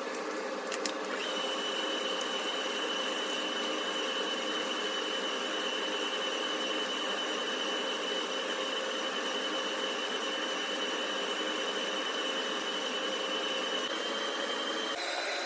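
Steady whirring hum of a small electric kitchen appliance motor, with a constant high whine setting in about a second in.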